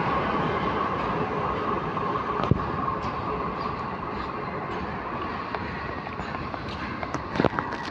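Freight train running past on the track, a steady wagon noise that slowly fades, with two sharp knocks, one a couple of seconds in and one near the end.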